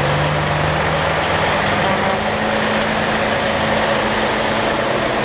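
Heavy truck engines running steadily as trucks drive by, with a low engine note that rises slightly in pitch over the first two seconds and then holds.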